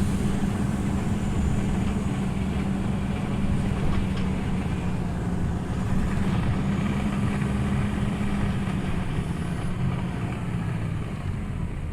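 Scania OmniLink CL94UB city bus's diesel engine running steadily with a low hum, easing off slightly near the end.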